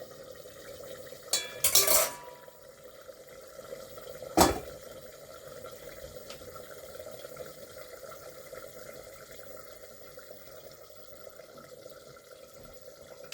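Metal cookware clinking: a quick cluster of clinks with a brief ring about a second and a half in, then one sharp knock about four and a half seconds in, over a steady low hiss.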